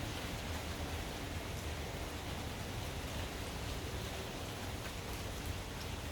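Steady rain falling, an even hiss with faint scattered drip ticks and a low rumble underneath.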